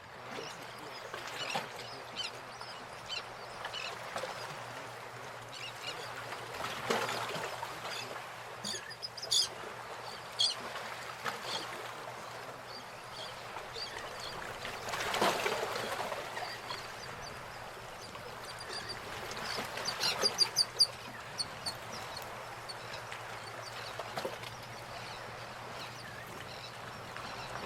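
Birds calling outdoors: scattered short, high calls over steady background noise, with a quick run of loud, repeated calls about two-thirds of the way through.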